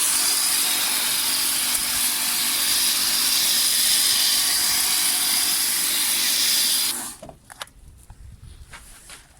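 Kärcher pressure washer spraying active foam through a foam-generator attachment: a loud, steady hissing spray with a low hum beneath. It cuts off about seven seconds in, leaving a few faint clicks.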